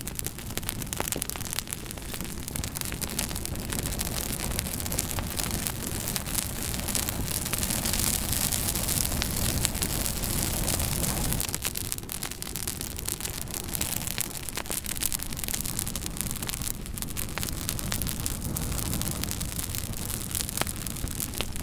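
Wood fire burning in a fireplace: a steady hiss full of quick sharp crackles and pops, swelling louder for a few seconds in the middle and then easing off.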